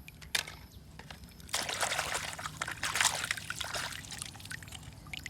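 A single knock, then water splashing and trickling for about three seconds from a second and a half in, as a toy car is washed in water.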